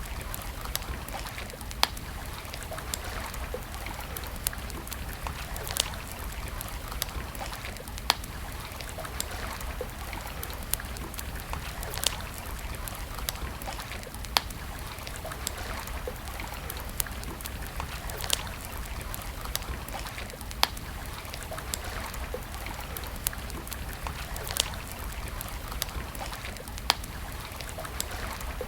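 Wood campfire crackling: sharp single pops every second or two, some louder than others, over a steady hiss and low rumble.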